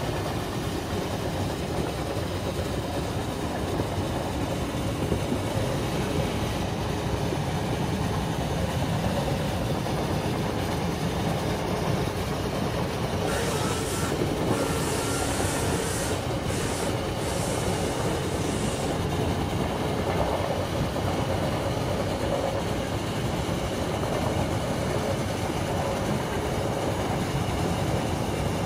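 Steam train running along the track, a steady rumble and rattle heard from inside a passenger carriage. About halfway through, a high hissing sound comes in for several seconds, with short breaks, then fades.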